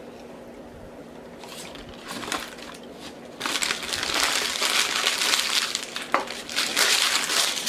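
Paper food packaging crinkling and being crumpled, up close: a few crackles from about a second and a half in, then continuous loud crinkling from about halfway through.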